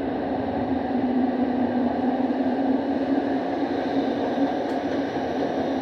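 A TTC subway or light-rail train in motion, giving a steady running noise with a low, even hum throughout.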